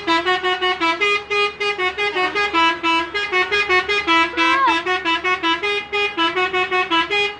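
Bus 'basuri' (telolet) multi-tone air horn playing a quick tune: short toots, about five a second, switching back and forth between two or three pitches.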